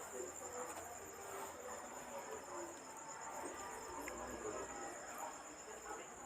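Cricket chirping: a faint, steady high-pitched pulsing trill.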